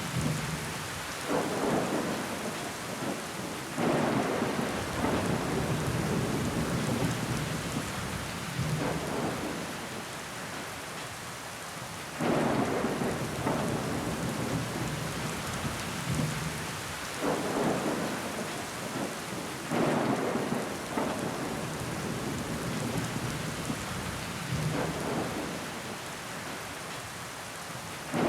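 Steady rain on window glass, with water running down it. Louder surges come in every few seconds, starting suddenly, the strongest about four, twelve, seventeen and twenty seconds in.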